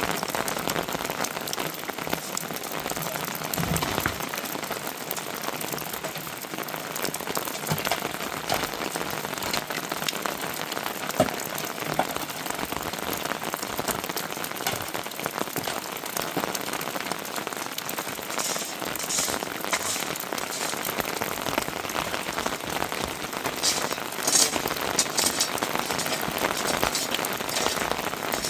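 Heavy rain falling steadily, with scattered sharper drop impacts that come thicker in the second half.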